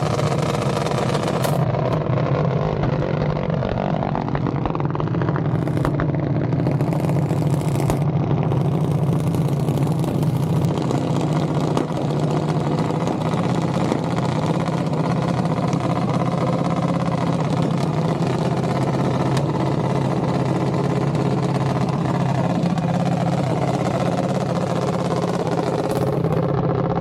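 Engine noise running steadily and evenly, without clear revving.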